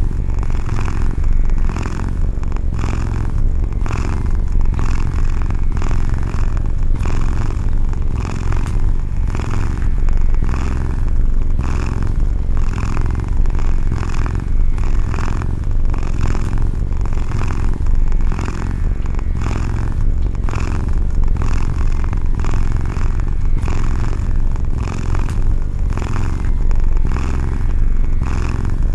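Domestic cat purring close up: a steady, loud low rumble that pulses with its breathing, about twice a second.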